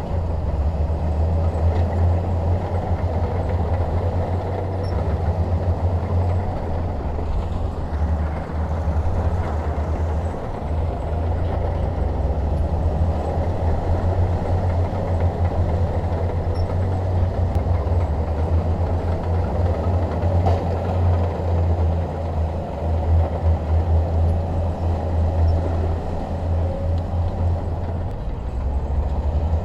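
Crawler bulldozer's diesel engine running steadily, a deep continuous hum with a rumble over it.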